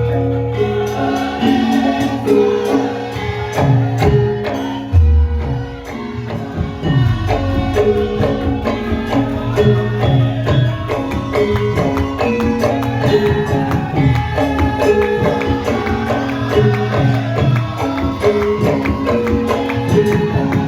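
Javanese gamelan music accompanying a lengger dance: repeating metallic melodic patterns over hand-drum strokes, with singing.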